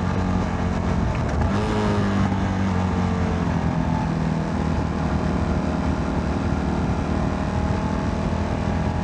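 CFMoto 300NK single-cylinder motorcycle engine running steadily at cruising speed under the rider, with road and wind noise; about a second and a half in, the engine note briefly shifts pitch.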